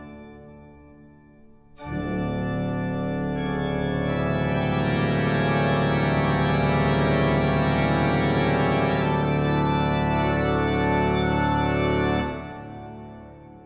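Background music of long held chords on a sustained keyboard sound. It comes in sharply about two seconds in and dies away near the end.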